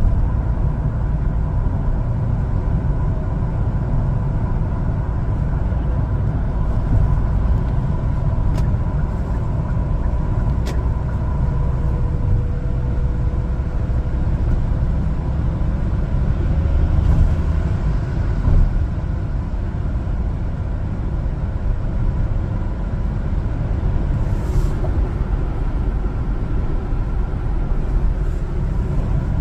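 A 1-ton LPG cargo truck being driven on the road: steady engine and road rumble, with a faint steady whine.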